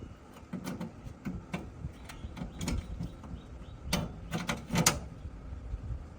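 Irregular clicks and knocks of hands working on parts and tools, with the loudest few knocks about four to five seconds in.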